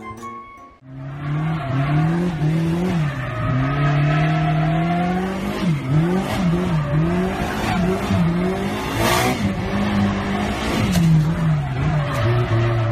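Car engine revving up and down over and over, its pitch rising and falling every second or so, with tyre noise from drifting and a louder hiss about nine seconds in.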